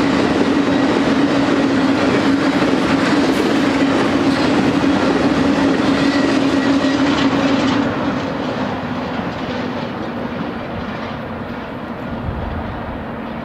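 BNSF intermodal train's loaded container and trailer cars rolling past at speed, a steady rumble of steel wheels on the rails with a low hum. About eight seconds in the last car goes by and the sound drops and dulls as the train moves away.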